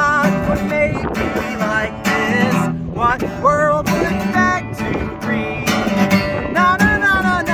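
Acoustic guitar strummed under a voice singing long, wavering notes.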